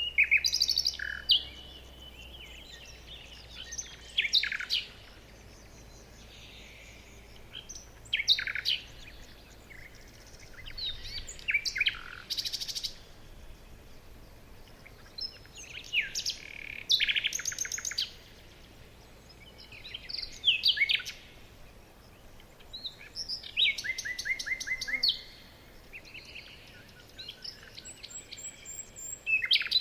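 Songbird singing short, varied phrases of whistled notes and rapid trills, one phrase every few seconds with pauses between.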